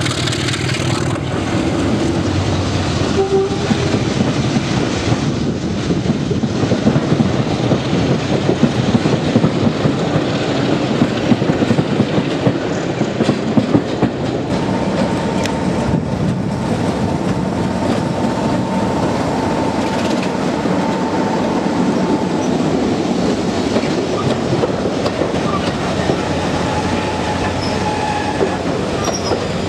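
Heritage diesel train pulling out and rolling past, its engine working under load and its wheels clattering over the rail joints; the noise swells around the middle, and a thin steady tone sounds for several seconds in the second half.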